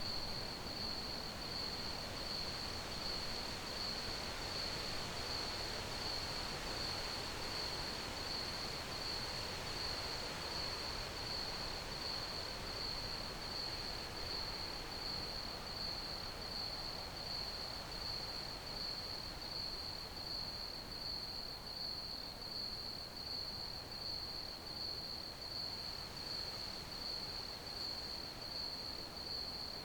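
Crickets chirping: one high, even pulsing trill that keeps up without a break, over a steady soft hiss.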